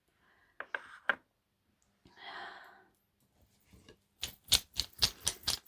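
Small stones clicking and clattering against each other in quick succession as a hand rummages for an oracle stone, after a few lighter clicks and a short breathy rush.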